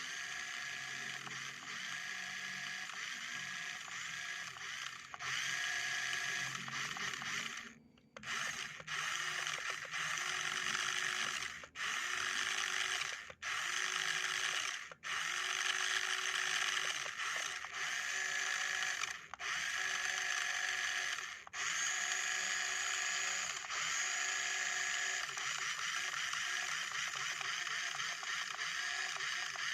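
Electric motor and gear train of a radio-controlled container truck whirring steadily. It cuts out for a moment several times, as the throttle is let off and applied again.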